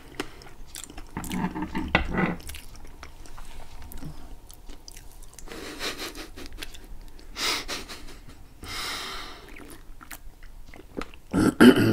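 Chewing and mouth sounds of people eating soft berry cheesecake, with sips from glasses of tea near the end.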